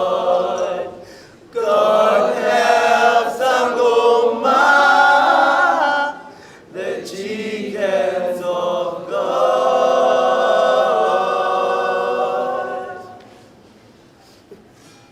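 A choir of voices singing unaccompanied in long held phrases, with two short breaks. The singing dies away about two seconds before the end.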